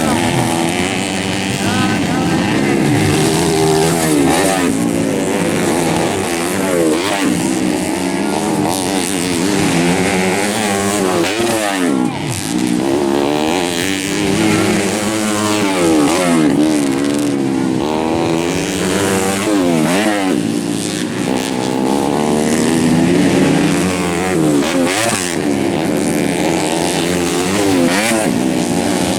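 Several off-road racing motorcycle engines revving hard, their overlapping pitches rising and falling as the bikes accelerate, shift and pass.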